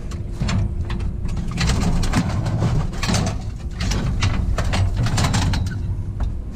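Steady low rumble with many scattered sharp knocks and clatters, and a faint steady hum underneath.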